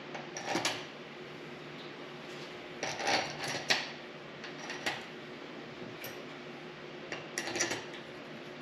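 Small metal parts and hand tools clinking and rattling as they are handled, in a few short bursts of clicks, with the loudest cluster about three to four seconds in.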